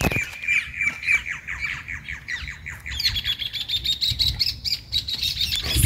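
Birds calling in a rapid series of short, falling chirps, several a second. About three seconds in, this gives way to a higher, continuous trilling chatter.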